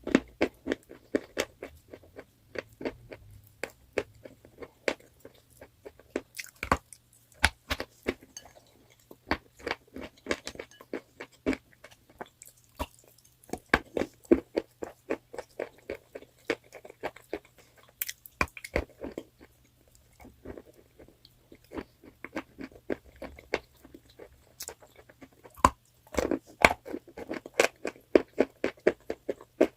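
A person biting and chewing crunchy chalk close to the microphone: runs of rapid, sharp crunches broken by short pauses between bites.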